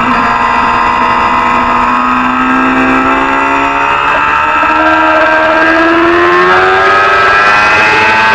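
Racing motorcycle engine (300-class supersport bike) running hard at high revs. The pitch sags slowly at first, steps up about four seconds in, then climbs steadily as it accelerates.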